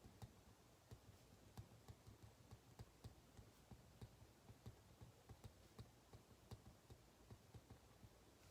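Faint, irregular small clicks and taps at a desk, a few a second, from someone studying: pen or keyboard work.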